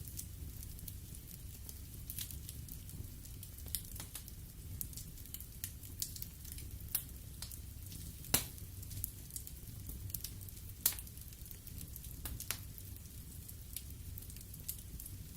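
Wood fire burning in a fireplace: irregular crackles and pops over a low steady rumble of the flames, with two louder pops about eight and eleven seconds in.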